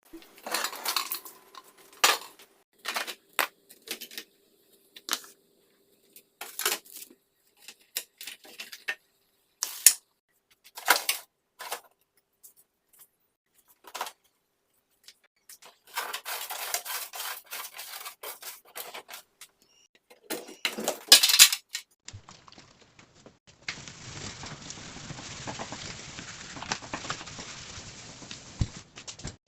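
Scattered clinks and knocks of dishes and plastic or glass containers being handled and set down while a refrigerator is cleaned, with a stretch of rubbing or scrubbing and a louder clatter about twenty seconds in. In the last few seconds a steady rushing noise takes over.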